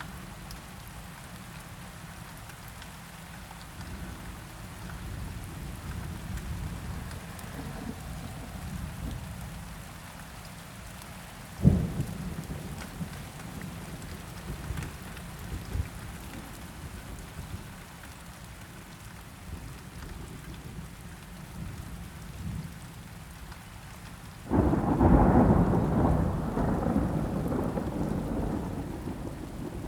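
Rain falling steadily with thunder: a sharp thunderclap about twelve seconds in, then a loud roll of thunder breaking out near the end and rumbling on.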